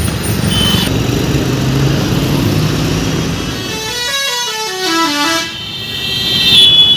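Truck horns on the road over engine and traffic noise. About halfway through, a horn plays a run of notes stepping down in pitch, and a loud steady horn blast starts near the end.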